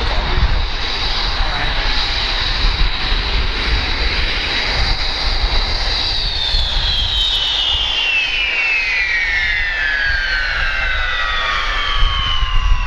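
Aero L-29 Delfín's single turbojet engine whining at a steady high pitch, then the whine falls steadily from about halfway through as the engine winds down.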